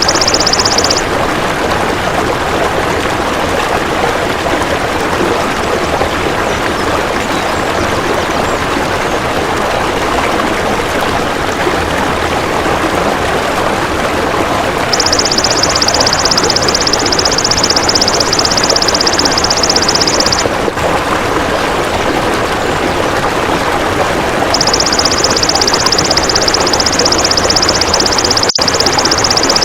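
Golden grasshopper (belalang emas) trilling, a high, even buzz in three bouts: briefly at the start, for about five seconds from about 15 s in, and again from about 24 s to the end. Under it runs a steady rushing noise like running water.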